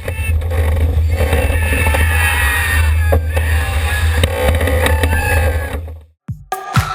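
Wind buffeting the microphone, with a heavy low rumble, and rushing water, as aboard a sailboat at speed. It cuts off suddenly about six seconds in, and dance music with a steady beat comes in.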